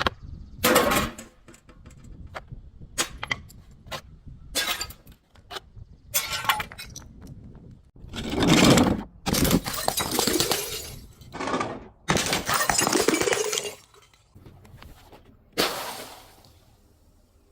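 Glass bottles being smashed: a series of sharp breaks with shards clinking, and several longer stretches of crunching and shattering glass.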